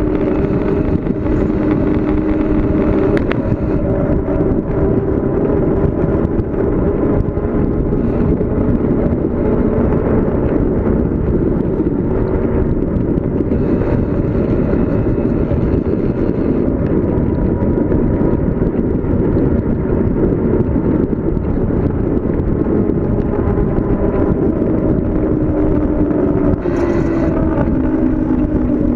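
Steady rushing wind and road noise during a fast downhill ride, with a droning hum that shifts lower in pitch near the end.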